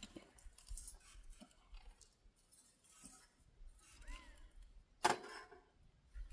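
Quiet handling sounds: scattered light clicks and clinks of small objects, with one sharper knock about five seconds in and a short high chirp a second before it.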